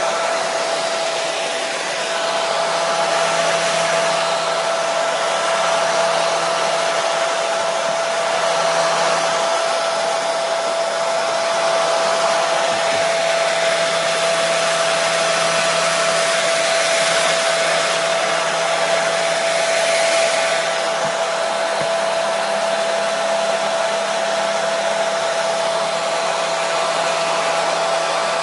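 Hair dryer running steadily: an even rushing blow of air with a constant motor hum, unchanging throughout.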